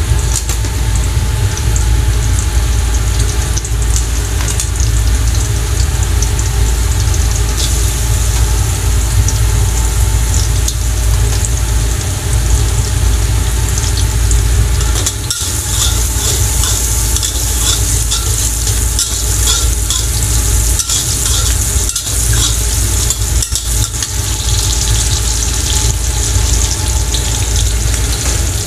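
Sliced garlic and shallots sizzling in hot oil in a metal wok, crackling as a metal spatula stirs and scrapes them around the pan. The sizzle grows brighter from about halfway, over a steady low rumble.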